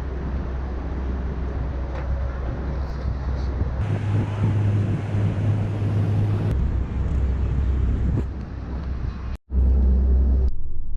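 Steady low rumble and noise of a riverboat under way, with a strong deep hum. The sound changes abruptly a few times and drops out briefly near the end.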